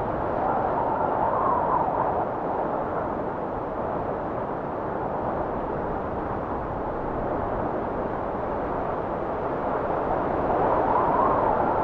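Blizzard wind blowing steadily. Gusts swell in with a rising and falling whistle about a second in and again near the end.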